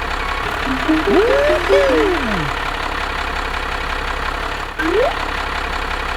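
An engine running steadily, with a few short whistle-like tones that glide up and down about a second in and a short rising one near five seconds.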